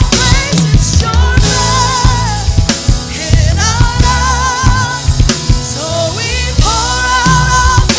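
Live worship band playing, with a drum kit keeping the beat under a singer holding long, wavering notes.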